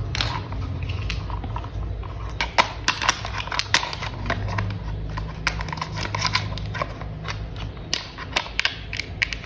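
Hard plastic toy parts clicking and tapping against each other as they are handled and snapped together, in a quick, irregular run of small clicks over a low steady hum.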